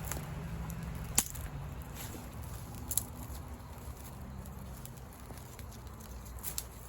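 A few sharp clicks and snaps, the loudest about a second in and another near three seconds, over a steady low rumble.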